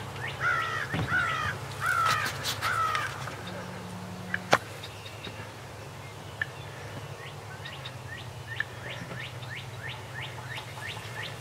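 Outdoor bird calls: four harsh calls in quick succession over the first three seconds, then a run of short, high chirps through the second half. A single sharp click sounds about four and a half seconds in.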